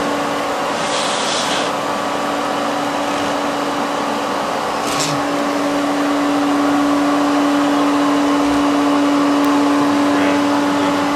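Bee vacuum running with a steady, constant hum while it sucks honeybees up through its hose, with a short hiss about a second in.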